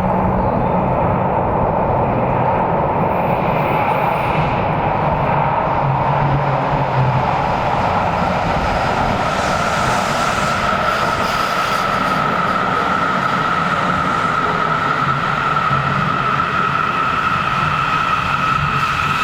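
Yokohama Municipal Subway Green Line train running through the underground station, a loud steady rumble and rush of wheels. A steady whine comes in about halfway through.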